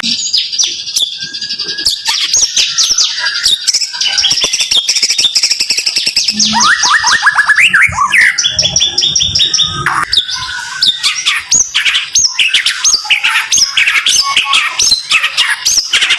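White-rumped shama (murai batu) singing a dense, rapid-fire 'tembakan' song: quick runs of repeated high chirps and trills with almost no pauses, with a lower series of quick rising notes about halfway through.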